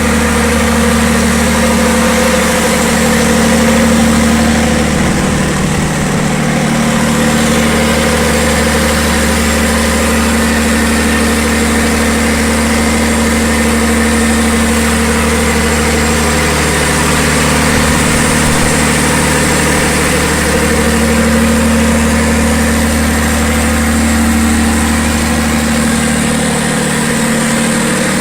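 Diesel generator engine running at a steady speed with a constant low hum; the deepest part of the hum thins out about a second before the end.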